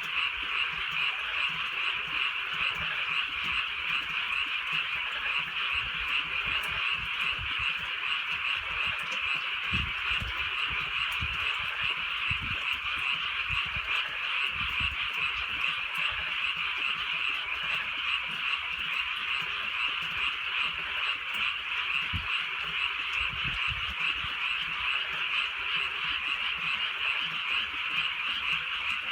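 Night chorus of many frogs croaking together: a dense, steady, fast-pulsing chorus at a high pitch with no breaks.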